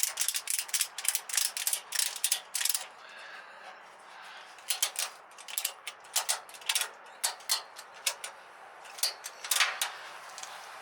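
Sharp mechanical clicking, ratchet-like: a quick even run of about four clicks a second for roughly three seconds, then scattered clicks in small groups.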